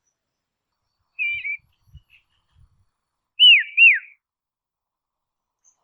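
Dusky robin whistling: a short wavering note about a second in, then a louder pair of down-slurred whistles near the middle.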